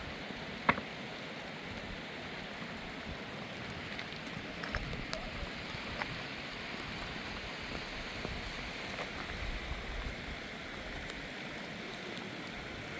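Steady heavy rain falling, a constant hiss with scattered drips and small clicks. A single sharp knock comes about a second in.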